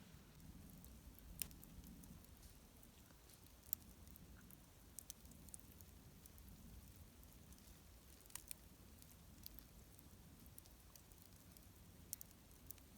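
Near silence with a faint low rumble, broken by scattered sharp, faint clicks and crackles at irregular intervals.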